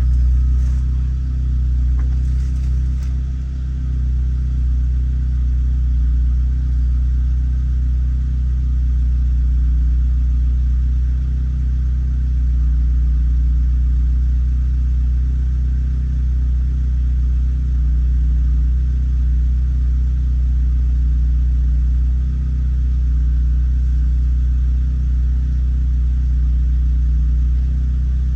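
Lotus Elise's four-cylinder engine idling steadily just after a cold start.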